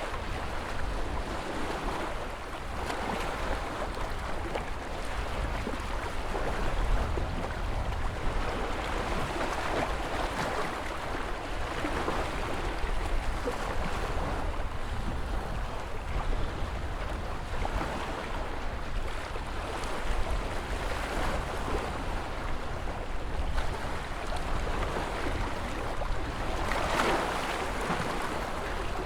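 Ocean waves surging in a continuous wash of surf, swelling and easing every few seconds, with one stronger swell near the end.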